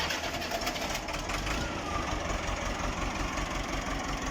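Massey Ferguson 185 tractor's Perkins four-cylinder diesel engine running steadily at idle, just after starting.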